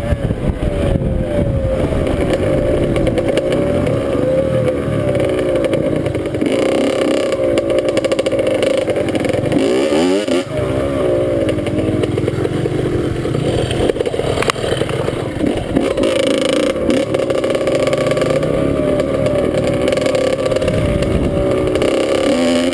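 Dirt bike engine running while being ridden, its revs rising and falling with the throttle, with a brief drop and climb in revs about ten seconds in.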